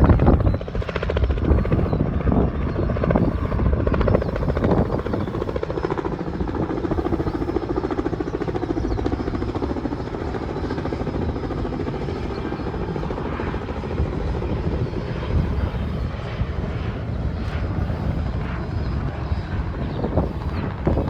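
Helicopter in flight, its rotor giving a fast, even beat over the engine noise.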